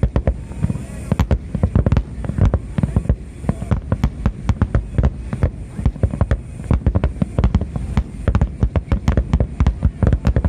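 Aerial fireworks exploding in a dense, continuous barrage, many deep booms and sharp cracks a second with no pause.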